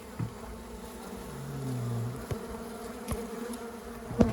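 Many honeybees buzzing steadily, with one bee flying close by for about a second, giving a louder, lower buzz. A few short knocks, the loudest near the end.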